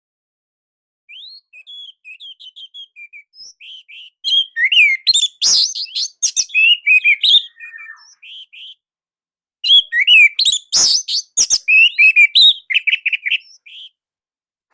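Orange-headed thrush (anis merah) singing: soft, quick high notes at first, then two loud, rapid phrases of varied whistles, slurred glides and sharp clicking notes, a short pause between them.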